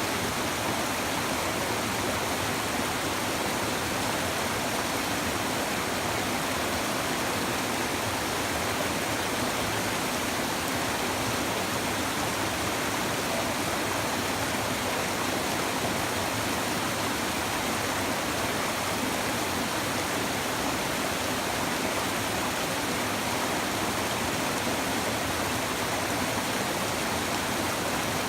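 A shallow river babbling and rushing over stones: a steady, even flow of water with no breaks.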